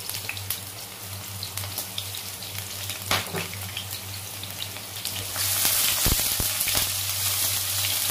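Sliced shallots and garlic sizzling in hot oil in a wok, with scattered small pops. The sizzle grows louder about five seconds in, with a couple of low knocks, and a steady low hum runs underneath.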